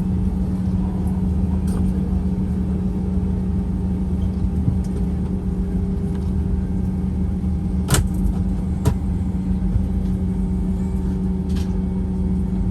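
Steady low rumble and hum of an airliner's engines heard inside the passenger cabin, with a couple of sharp clicks about eight and nine seconds in.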